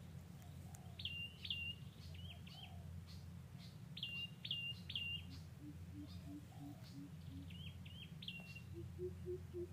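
Wild birds chirping in short, sharp calls, each dropping in pitch, in groups of two or three over a steady low hum. From about halfway a lower call repeats in an even series of about three notes a second.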